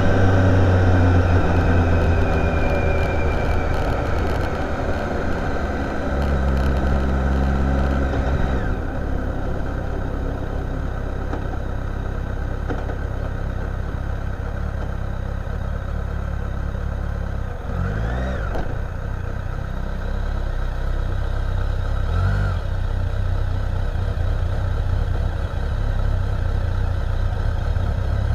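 Motorcycle engine running under way, a steady low drone whose note changes a few times. Twice near the middle a brief whine rises and falls in pitch.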